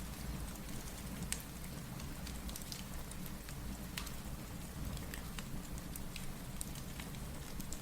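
Steady rain with a low rumbling wash, mixed with the scattered sharp crackles and pops of a wood fire burning in a fireplace.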